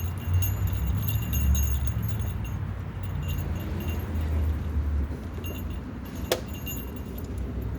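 Light metallic jingling that comes and goes, over a steady low rumble, with one sharp click about six seconds in.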